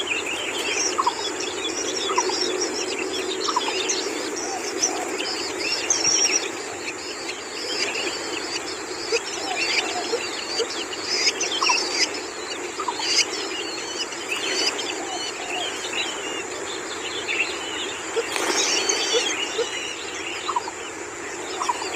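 Long-tailed shrike and its young calling: many short chirps and quick squeaky notes come throughout, over a steady background hum and a thin high steady tone.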